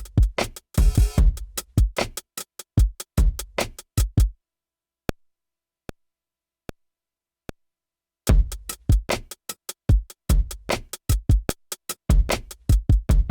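Electronic beat sequenced on an Akai MPC Live 3, with kick drum and hi-hats. The beat drops out about four seconds in, leaving four lone ticks evenly spaced, then comes back in full about eight seconds in.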